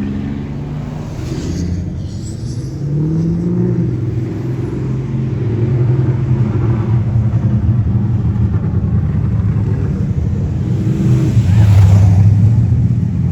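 Classic cars driving past at cruising speed, their engines running low and steady. One engine rises in pitch about three seconds in, and a louder car passes near the end.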